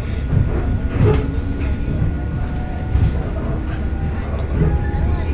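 Inside a moving local train: the steady rumble of the car's running gear, with low thumps about once a second and faint thin tones near the end.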